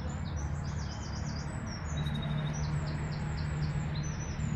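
Small birds chirping and singing: a quick run of high notes near the start, then a string of about six evenly spaced high chirps in the second half, over a steady low hum.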